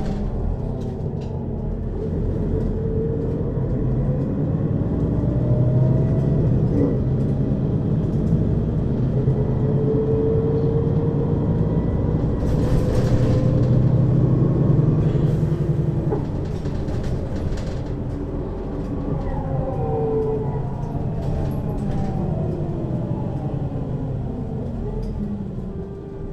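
Mercedes-Benz Citaro city bus on the move, heard from inside above the second axle: diesel engine running with a deep rumble, and a whine from the drivetrain and its ZF Ecomat 2 6HP-592 C automatic gearbox that rises in pitch as the bus pulls away and accelerates, then falls as it slows in the second half.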